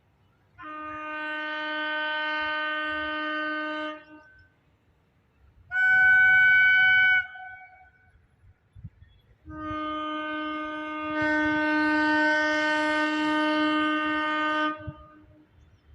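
Locomotive air horn sounding three blasts: a long low-toned blast of about three and a half seconds, a shorter, louder blast on a higher tone about six seconds in, then a long low-toned blast of about five seconds that swells midway.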